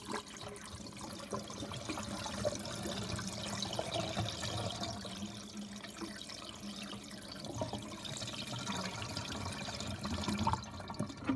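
Tap water running steadily into a watering can as it fills.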